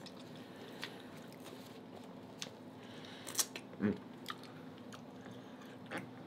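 Close-up eating sounds: biting and chewing corn on the cob and oxtail, with scattered short wet clicks and smacks, the sharpest about three and a half seconds in. A brief vocal 'mm' follows just after.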